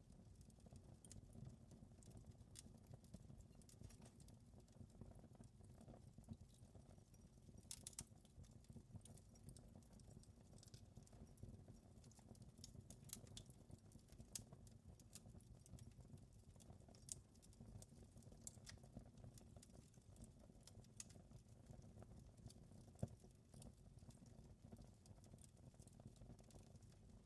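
Wood fire crackling in a fireplace: irregular small pops and snaps over a soft, steady low rumble of the flames.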